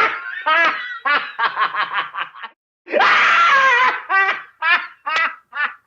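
Recorded comedic laughter sound effect: a shrieking burst of laughter that breaks into a run of rapid, high-pitched "ha-ha-ha" syllables, twice over, with a short gap about two and a half seconds in.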